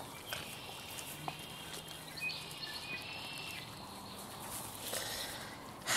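Quiet outdoor ambience with faint bird calls: short, thin, high notes in the middle stretch.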